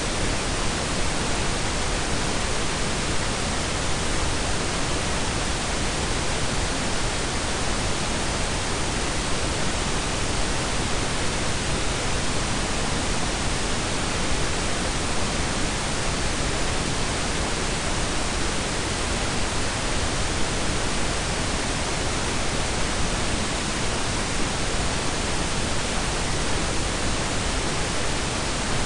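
Blend of pink and brown noise: a steady, even hiss with a deep rumble underneath, unchanging throughout.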